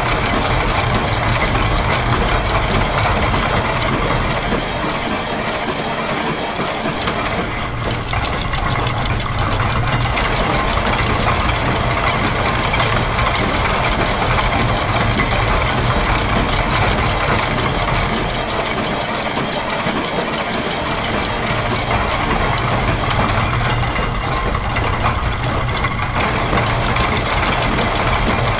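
Layered loops of machine sounds (gears, ratchets, clockwork and a press) running together as a dense, continuous mechanical texture with a repeating pattern. The high rattle thins out briefly twice, about 8 and 24 seconds in.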